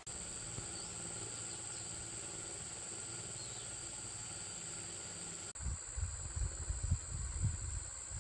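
Steady high-pitched insect chirring over a low hum. About five and a half seconds in the sound cuts, and the low part turns uneven and louder.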